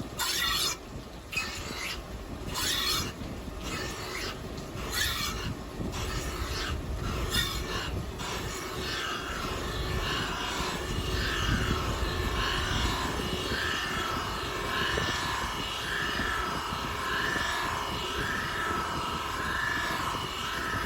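Rotary surface grinder running, its wheel grinding a steel sheet-cutting die. For the first several seconds there is a run of short, irregular scraping strokes. After that comes a steady whine that swells and fades about once every 1.3 s.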